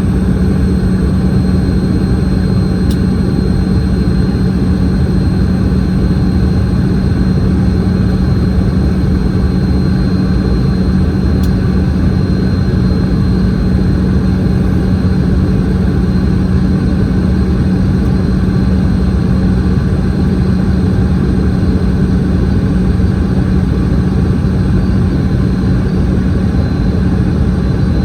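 Boeing 717's rear-mounted Rolls-Royce BR715 turbofan engines running, heard inside the rear cabin: a loud, constant rumble with a steady low hum.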